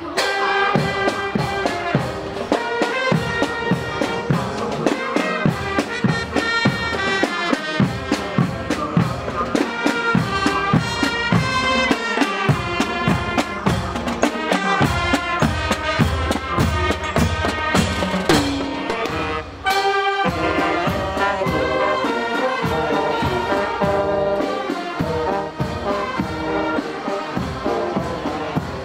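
Instrumental music led by brass, trumpets and trombones, over a steady percussion beat, with a brief break about two-thirds of the way through before the music resumes.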